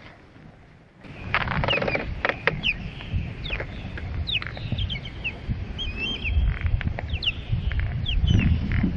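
Birds calling overhead: a rapid, irregular series of short, high, downslurred chirps that starts suddenly about a second in, over a low rumble.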